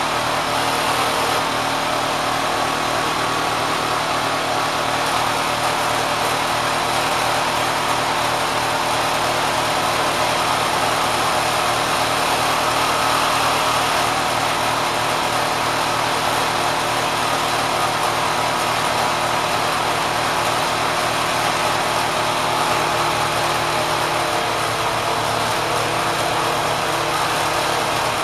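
Kenmore sewing machine driven by a swapped-in 3/4 hp electric motor, running steadily at high speed with an even mechanical whir and a steady hum underneath.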